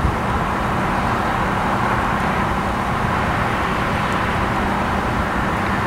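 Norfolk Southern train rolling past with a steady rumble and a low, even hum underneath.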